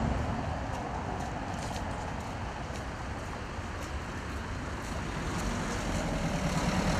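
Street traffic: a steady rumble of passing cars, a little quieter in the middle and swelling again near the end.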